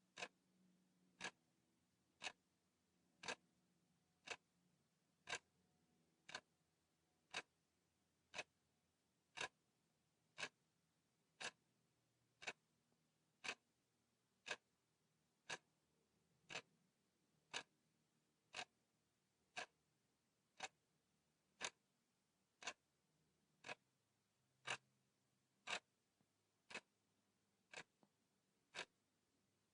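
Clock ticking steadily at one sharp tick per second.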